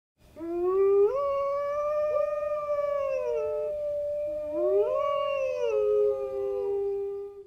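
Two canines howling together in long, overlapping howls. Each howl rises, holds steady for a couple of seconds and then falls, and a second howl rises again about halfway through.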